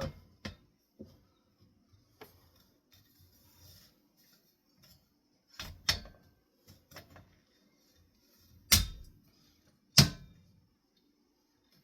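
Scattered clicks and knocks of metal ceiling fan parts being handled and fitted together, with two louder knocks near the end.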